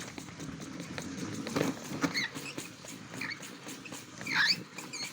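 Small battery-powered toy washing machine running, with a steady low hum and a fast plastic rattle. A few short high squeaks come over it, the loudest near the end.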